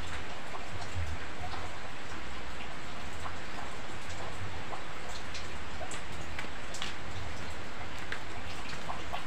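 Steady rain falling, with a few light ticks scattered over it.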